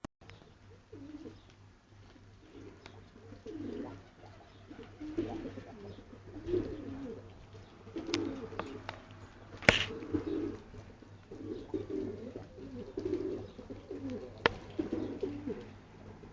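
Several domestic pigeons cooing over one another, with a few sharp clicks, the loudest about ten seconds in.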